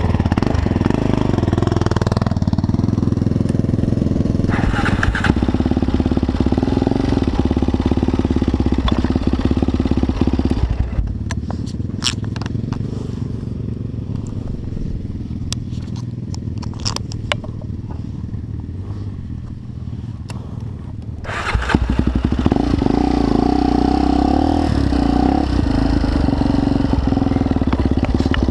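Motorcycle engine running steadily. About eleven seconds in it drops quieter for some ten seconds, with scattered sharp clicks, then comes back up loud.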